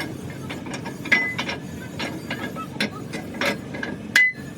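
Metal tools and engine parts clicking and clanking, with two sharp ringing metal strikes, one about a second in and the loudest near the end, over a steady low hum.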